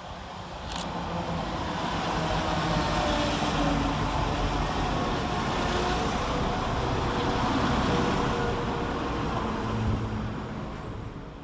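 Class 172 Turbostar diesel multiple unit 172334 coming through the station: diesel engine and wheel noise builds about a second in, holds steady, then drops away near the end.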